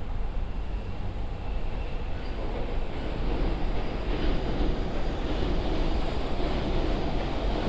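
Steady low rumble of city traffic, with a heavier rushing sound building from about halfway through as something large passes.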